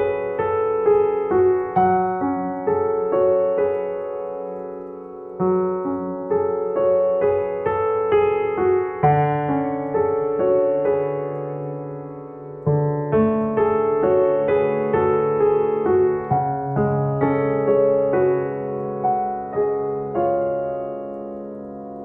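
Background piano music: a slow, gentle solo piano piece, its notes struck and left to ring in short phrases.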